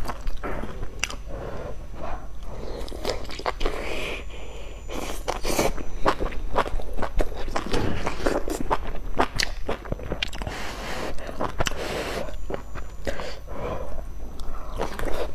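Close-miked chewing of pan-fried dumplings: wet mouth sounds with many irregular clicks, and a bite into a dumpling near the end.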